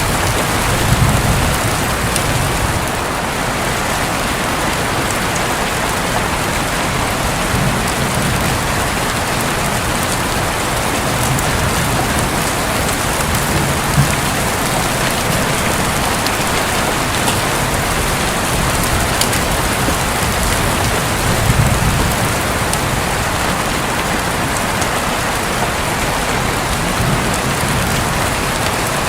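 Heavy rain falling on a roof in a steady, even hiss of drops. Soft low thunder rumbles swell up and fade every several seconds.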